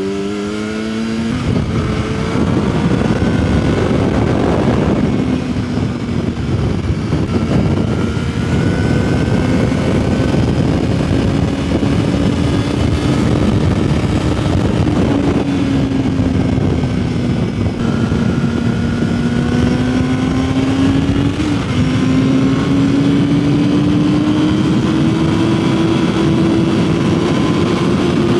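Yamaha R6's 600 cc inline-four running while the bike is ridden. It revs up and shifts about a second and a half in, then holds steady mid revs that slowly rise and fall with light throttle changes. A constant rush of wind and road noise runs underneath.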